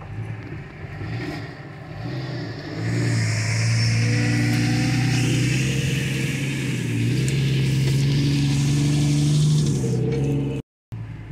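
Jeep engine revving loud under load. It builds about three seconds in and holds for several seconds, rising slightly in pitch, then cuts off suddenly near the end.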